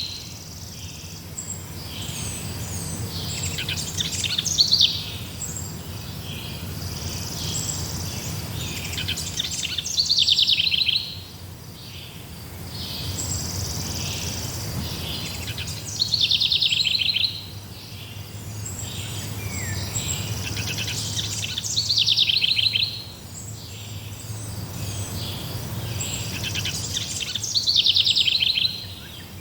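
Forest birdsong: one bird repeats a short, fast, trilled phrase about every six seconds, with thinner chirps from other birds in between, over a steady low hum.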